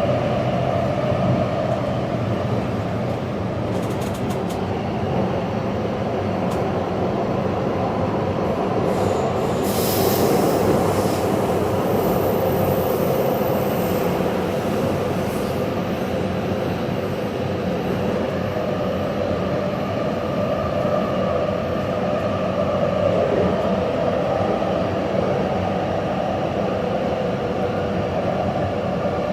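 Taipei Metro train running along the track, a steady rumble with a constant hum. A thin high squeal comes in briefly about twelve seconds in.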